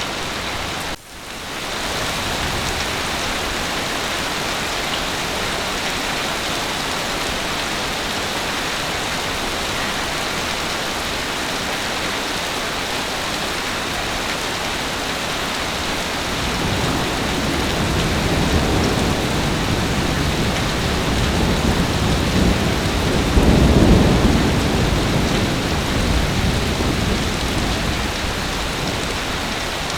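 Heavy rain falling steadily, with a brief dip about a second in. From about halfway, a long low rumble of thunder builds, peaks near the end and fades away.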